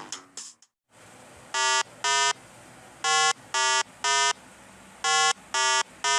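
Electronic beeps, each short and on one steady pitch: two, then two groups of three, evenly spaced about half a second apart, over a faint hiss.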